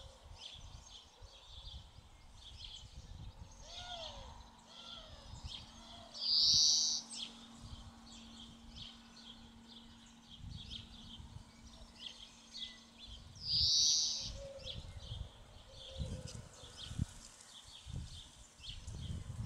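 Songbirds chirping during a hush, with one bird's short, loud song phrase coming twice, about a third of the way in and again about two-thirds in.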